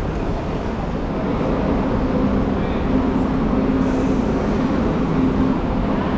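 Frecciarossa ETR 500 high-speed train heard from inside a passenger coach: a steady rumble, with a low hum joining about two seconds in.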